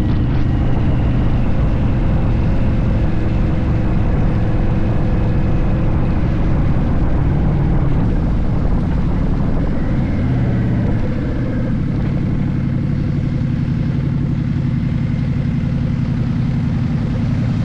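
Harley-Davidson motorcycle's V-twin engine running steadily under way, heard from the moving bike with road and wind noise; the engine note eases a little about eleven seconds in.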